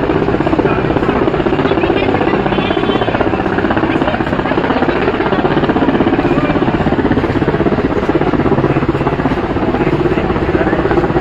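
Helicopter rotor blades chopping in a fast, steady beat over the running engine.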